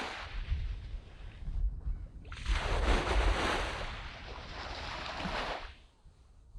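Waves breaking on a sandy beach. The tail of one wash fades just after the start, then a louder wave breaks about two seconds in and dies away just before the end.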